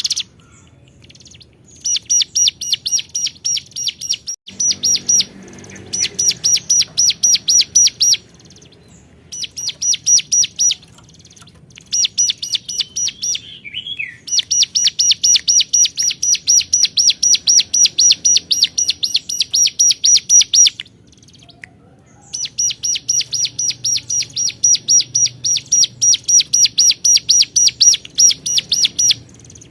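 Ciblek gunung (a prinia) singing hard: rapid runs of sharp, high chirping notes, about five a second, in bouts of two to six seconds separated by short pauses.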